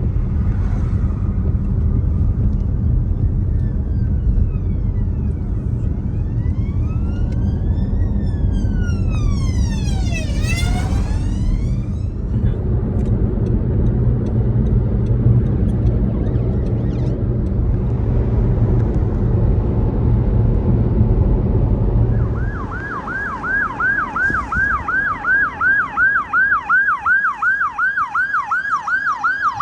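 Emergency vehicle sirens: a fainter slow rising-and-falling wail over a heavy low rumble, then, after a sudden change about 22 seconds in, a loud close siren on a fast yelp, about four sweeps a second.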